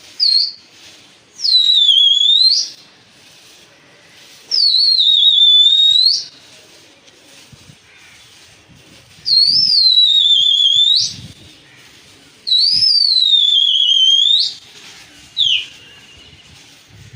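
Loud human whistling: four long, piercing whistles, each dipping in pitch and then sweeping sharply up at the end. Short whistle blips come at the start, near the end, and right at the close.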